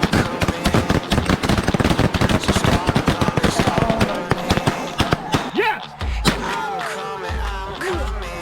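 Shotguns firing in a rapid volley for about the first four seconds, with snow geese honking afterwards, over background rock music.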